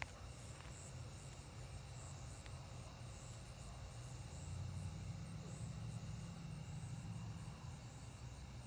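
Night chorus of crickets and other insects, steady high trilling with a pulsing upper note. A low rumble swells in the middle and eases off again.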